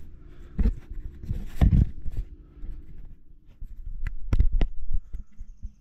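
Handling noise: scattered knocks and scrapes with heavy low thumps about half a second in, near two seconds, and again past four seconds, as gear is hooked on and moved about under the sawmill.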